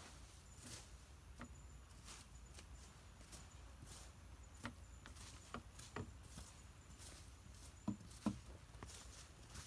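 Faint scattered taps and knocks at irregular intervals, the two loudest close together near the end, over a quiet background with a faint steady high-pitched tone.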